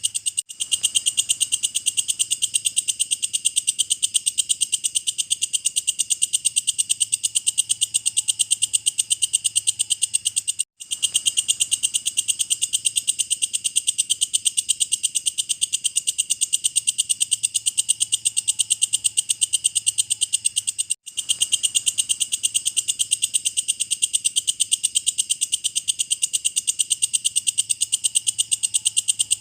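Walang kecek insect calling in a continuous, very fast, high-pitched ticking trill, broken twice by a brief gap where the looped recording restarts.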